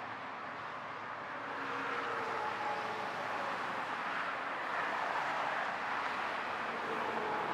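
Steady street traffic noise: vehicles running and passing, with a faint engine hum.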